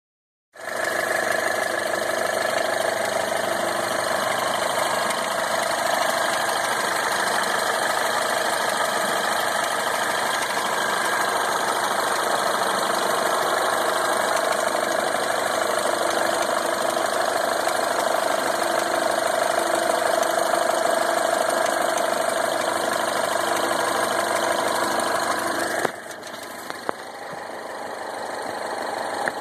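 Mini Countryman petrol engine running at start-up with a diesel-like clatter, the noise its owner is asking about. About 26 seconds in the sound drops abruptly in level, then slowly builds again.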